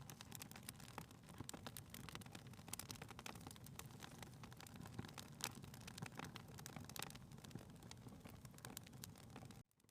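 Faint crackling of a wood fire in a fireplace: irregular sharp pops and snaps over a low, steady rumble. It cuts out abruptly for a moment near the end.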